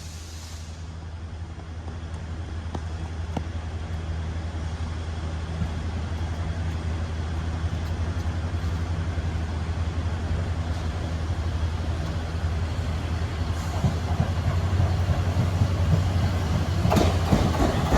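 Steady low mechanical hum that slowly grows louder, with a couple of faint clicks early on and rougher, noisier sound building near the end.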